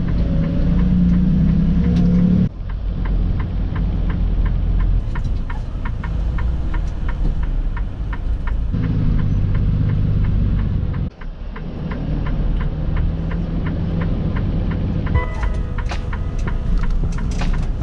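Semi-truck engine and road noise heard from inside the cab as the truck drives, with the sound changing abruptly twice.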